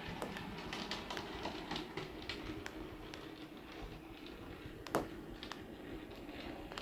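DCC-fitted model C-Class locomotive running on model railway track: a quiet motor hum with irregular clicks of the wheels over the rail joints, one sharper click about five seconds in.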